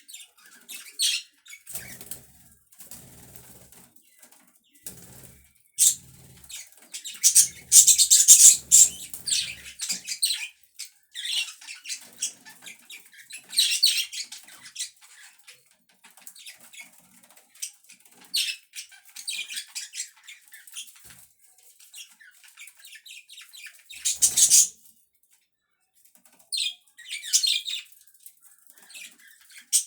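Pet budgies (budgerigars) chattering: quick high chirps and warbles in uneven bursts, with brief pauses between them.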